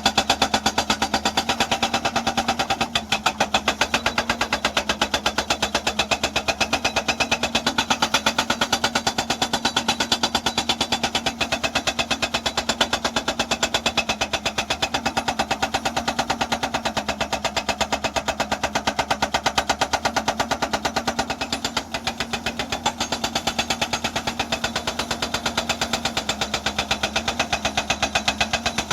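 Hydraulic breaker hammer on a Hyundai EX210 excavator striking rock in a fast, even series of blows, with the excavator's diesel engine running steadily underneath. The hammering breaks off briefly twice, about three seconds in and again near the end.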